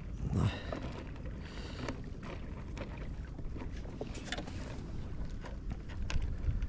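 Low, steady wind rumble on the microphone, with scattered small clicks and taps.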